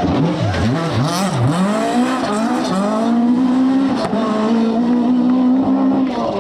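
Rally car engine on a stage: the revs drop and rise sharply three or four times in quick succession in the first second and a half, then climb and hold a steady high note.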